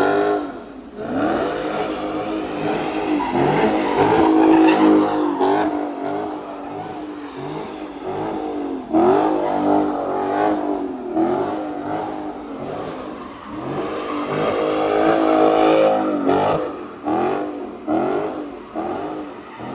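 Car engine being revved hard over and over, its pitch climbing and dropping with each rev, with a run of quicker short blips near the end.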